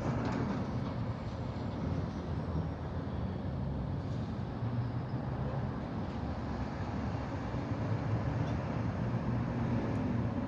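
Steady low outdoor rumble with no distinct events, the kind of background noise given by distant traffic or wind on the microphone.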